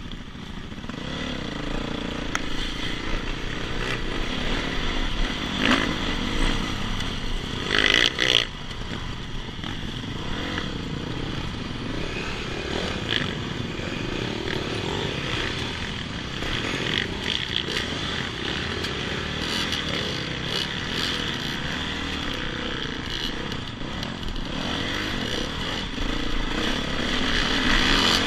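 Dirt-bike engine running as the motorcycle is ridden, steady throughout, with a couple of short knocks or rattles at about six and eight seconds.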